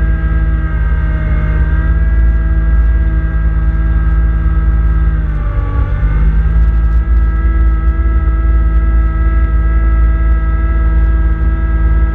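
Kubota B2650 compact tractor's diesel engine running steadily at working revs, driving a front-mounted snowblower. About five seconds in the engine pitch drops briefly, pulling down under load, then recovers.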